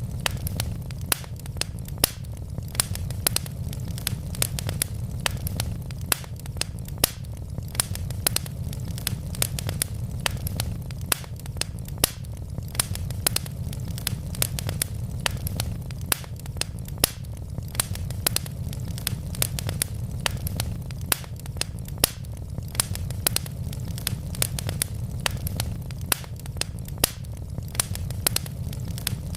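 Burning wood logs crackling, with frequent sharp snaps and pops, several a second, over a steady low rumble.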